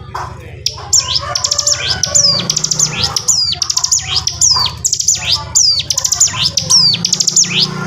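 Ciblek gunung singing a loud, fast song: sharp high notes that sweep downward, repeated over and over and mixed with rapid trills, starting about a second in. A steady low hum runs underneath.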